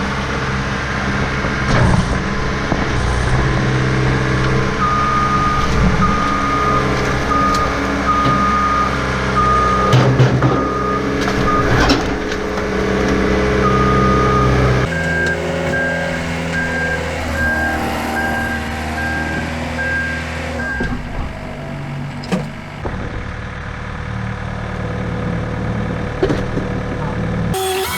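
Skid steer's engine running steadily while its backup alarm beeps about once a second. Partway through, the beeps break off and resume at a higher pitch for several seconds.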